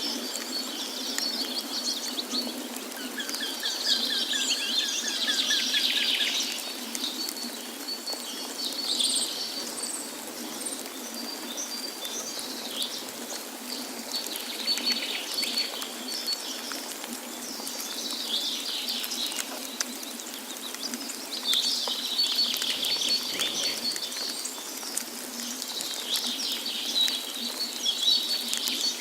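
Several songbirds singing and chirping in bursts every few seconds, with a quick run of evenly spaced lower notes early on, over a steady rush of falling water.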